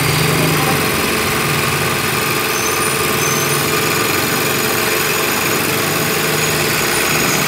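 Overlock sewing machine (serger) running steadily at speed, its motor humming under a fast even rattle of the needles and loopers.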